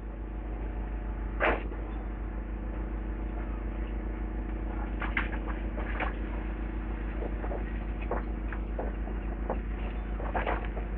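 Demolition excavator's diesel engine running steadily, with scattered knocks and clunks as debris is grabbed and dragged.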